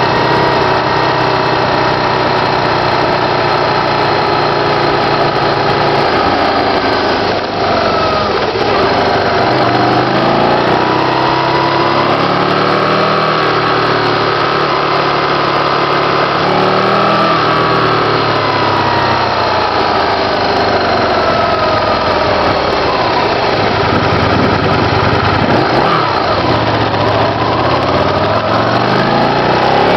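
Sport motorcycle engine heard from on board, running steadily at first, then its pitch rising and falling several times with throttle and gear changes as the bike slows in traffic.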